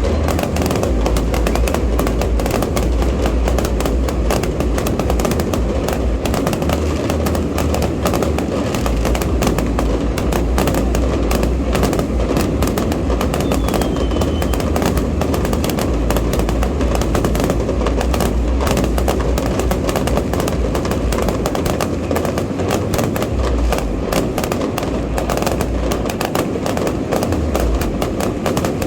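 Continuous, dense barrage of fireworks: rapid crackling and popping shell bursts over a constant low rumble of launches and explosions.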